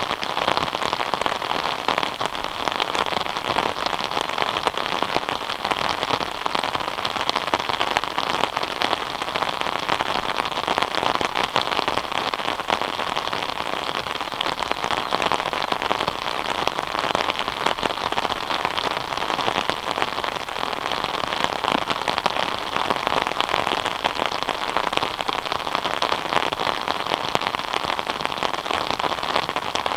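Steady rain falling, an even hiss dense with the ticks of individual drops, unchanging throughout.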